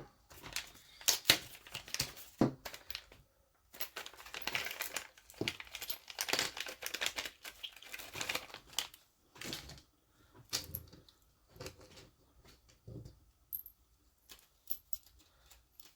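A plastic parts bag and its packaging being torn open and crinkled, with small metal parts clicking and rattling as they are handled. The rustling is busiest in the first half and thins to scattered clicks later.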